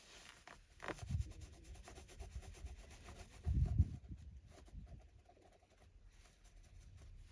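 Microfiber cloth rubbing and wiping across a car's interior surface in quick scratchy strokes, with a few dull bumps about a second in and again past the middle.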